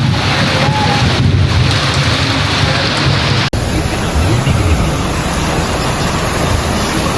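Wind buffeting the microphone over a loud, steady rush of rain and water. About three and a half seconds in the recording cuts abruptly, and the rushing carries on sounding duller.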